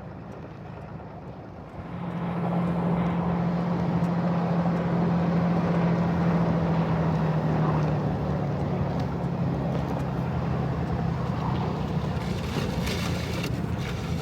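Ram tow truck's Cummins diesel engine running steadily under load on the trail, with a clear step up in loudness about two seconds in as it pulls harder.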